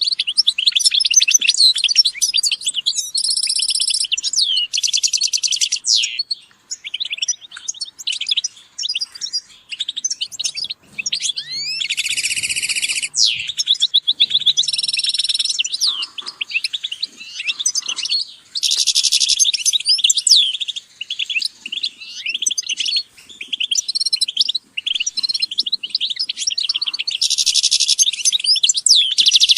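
Several European goldfinches singing and calling together: quick, high twittering chirps broken by several buzzy, rattling trills about a second long.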